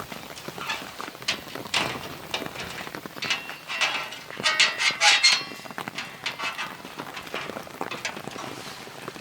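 Camping gear being handled: a run of irregular clicks, knocks and clinks, busiest around the middle, where a few strikes ring briefly like metal.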